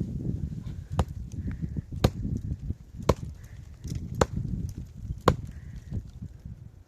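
Five sharp chopping blows on wood, evenly spaced about a second apart, over a low rumbling noise.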